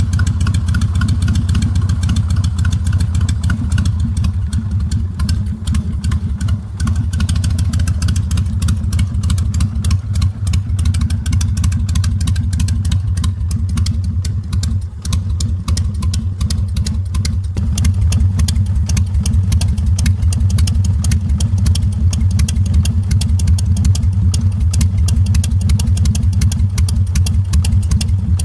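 Carbureted Harley-Davidson Sportster V-twin engine idling steadily while it warms up.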